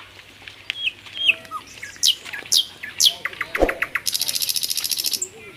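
Birds calling: several short, high, downward-sweeping notes, then a quick run of clicking notes. These are followed by about a second of a buzzy, rapid, very high trill that stops near the end.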